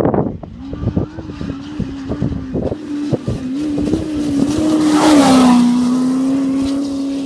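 A desert race vehicle's engine at high revs, approaching and passing by: it grows louder to a peak about five seconds in, where its pitch drops as it goes past, and then it fades away. Gusts of wind buffet the microphone in the first couple of seconds.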